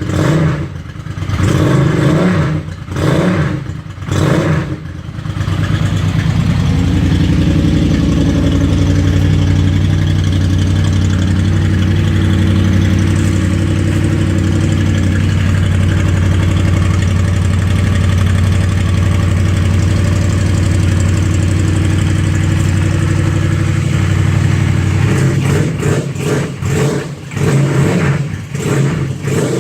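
Honda VFR800's V4 engine through a Coffman exhaust, revved in a few quick throttle blips, then held at a steady raised rev for about twenty seconds, then blipped again near the end.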